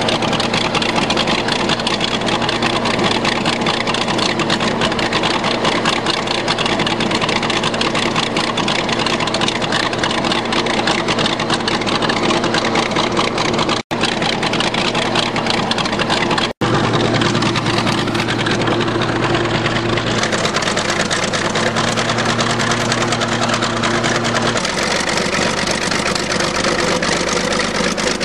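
Old bulldozer's diesel engine running steadily in the cold, its note shifting twice in the later part. The sound cuts out for an instant twice around the middle.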